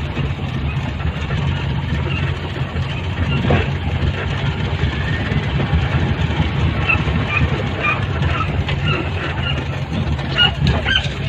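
Vehicle engine running steadily with a continuous low rumble. A few short high chirps are heard in its second half.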